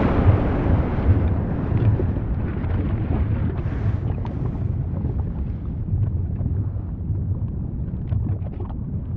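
Deep, steady rumble of an erupting volcano with wind buffeting the microphone, dying away at the start from a loud blast, with scattered faint crackles in the second half.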